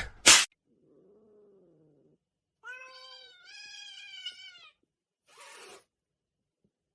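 Cat meowing: a faint low call, then a longer, wavering meow in two parts, followed by a short breathy sound near the end.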